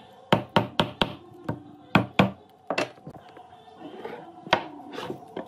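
A tool striking wood: a run of sharp knocks, irregularly spaced, pausing for about a second and a half past the middle before two more blows.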